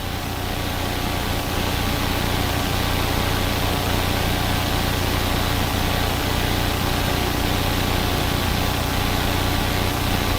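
Steady drone of a police helicopter's engine and rotors, with a constant low hum under an even rushing noise.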